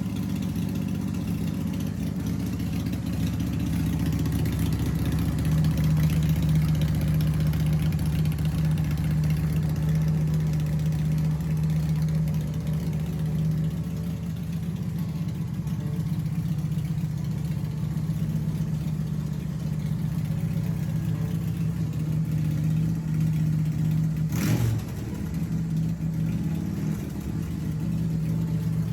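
Bourget Black Jack Ace chopper's engine running steadily at idle, a little louder for several seconds early on, with one sharp click near the end.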